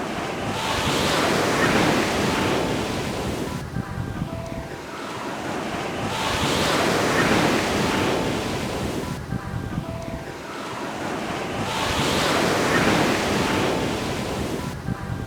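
Ocean surf on a beach: waves breaking and washing up the shore. They swell and ebb in a slow rhythm, about three surges, one every five to six seconds.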